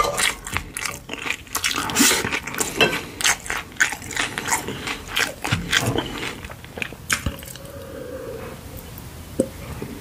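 Close-miked chewing of a mouthful of kimchi and pork-belly fried rice: dense wet mouth clicks and chewing for about the first six seconds, then quieter with only scattered clicks.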